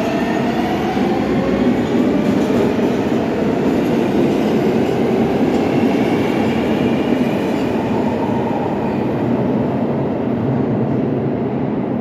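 Subway train pulling out of the station: a steady rumble of wheels on rails, with a faint motor whine that slowly rises in pitch as the train gathers speed.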